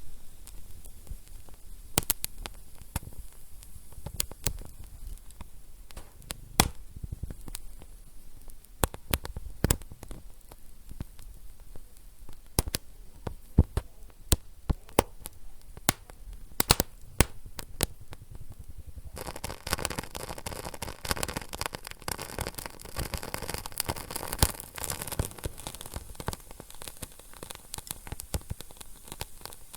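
Wood fire in a fireplace crackling, with irregular sharp pops and snaps over a low rumble. About two-thirds of the way through, a steady hissing joins the crackle.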